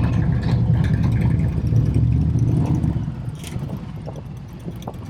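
Motorcycle engines running with a deep, low rumble, fading away over the last couple of seconds.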